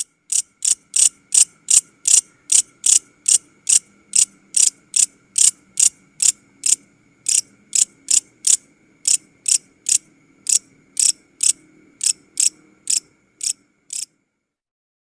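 Grasshopper stridulating: short, sharp, high-pitched chirps repeated evenly about two and a half times a second, stopping shortly before the end.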